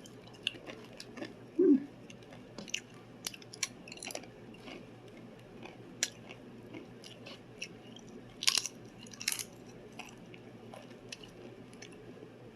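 Crunchy plantain chips being chewed: irregular crisp crackles, with two louder crunches about eight and a half and nine and a half seconds in.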